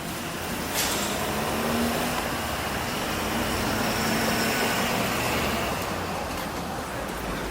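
A city bus running, heard from inside: a steady rush of motor and road noise that grows louder about a second in.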